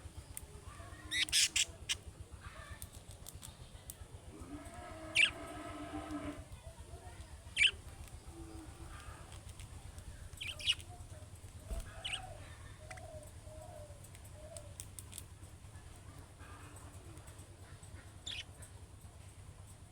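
Budgerigars calling: short, sharp chirps scattered through, with a brief warbling chatter about five seconds in, over a steady low hum.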